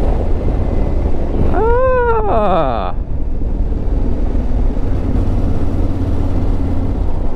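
Yamaha Ténéré 700's parallel-twin engine running at a steady road speed, with wind and road noise. A short voiced "ah" from the rider about two seconds in.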